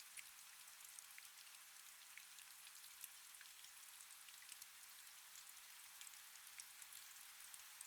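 Faint, steady rain: an even hiss with many small individual raindrops pattering.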